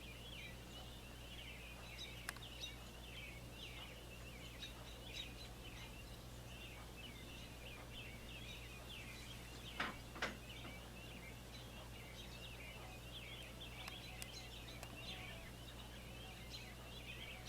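Faint small birds chirping continuously in the background over a low steady hum. Two soft taps come close together about ten seconds in.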